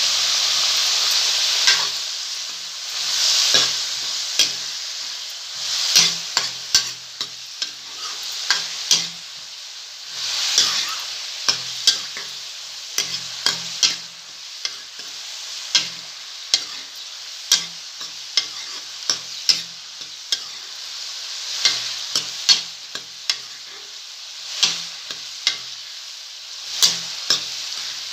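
Sliced onions sizzling in hot mustard oil in a kadhai while a metal spoon stirs them, with frequent sharp clacks and scrapes of the spoon against the pan. The sizzle is loudest at the start and swells again whenever the onions are turned over.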